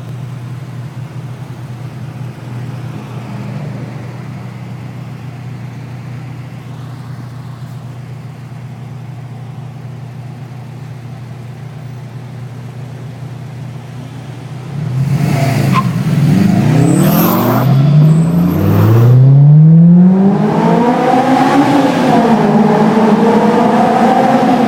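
Subaru WRX STI's turbocharged flat-four engine running steadily and low for the first part, then about 15 seconds in it accelerates hard and gets much louder, the revs climbing again and again as it shifts up through the gears.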